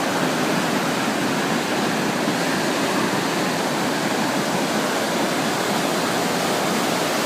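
Ocean surf breaking on a sandy beach: a steady, unbroken roar.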